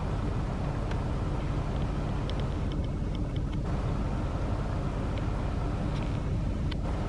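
Steady low rumble of an idling vehicle engine, with a few faint short high chirps over it.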